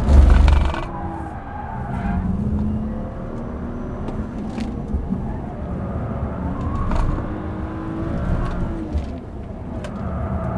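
BMW ActiveHybrid 3's turbocharged straight-six pulling through a series of corners, its note rising and falling with the throttle. A loud thump with a rumble comes right at the start, lasting under a second.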